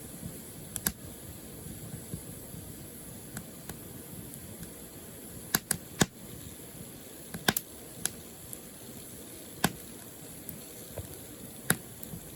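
Burning firewood crackling: a steady hiss broken by sharp, irregular pops, with a quick cluster of them about halfway through.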